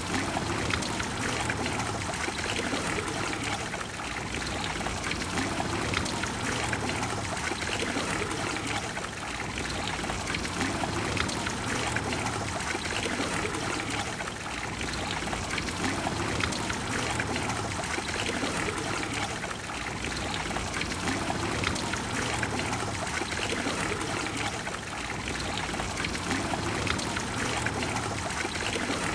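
Water of the Trevi Fountain splashing and pouring steadily into its basin, a dense even rush of falling water.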